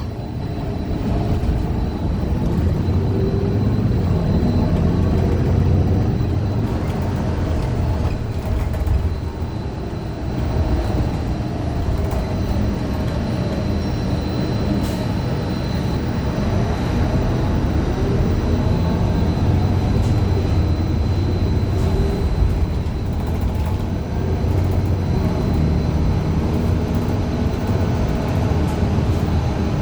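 Gillig low-floor transit bus with a Cummins Westport ISL G natural-gas engine and Allison B400R automatic transmission, heard from inside the cabin while underway: a steady low rumble whose pitch rises and falls several times as the bus speeds up, shifts and slows, with a faint steady high whine throughout. The uploader calls this bus's transmission messed up.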